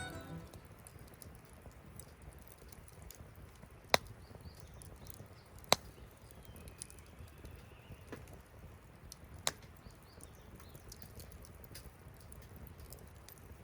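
Wood fire burning with a low steady rumble, faint crackles and three sharp pops, the loudest about four, six and nine and a half seconds in.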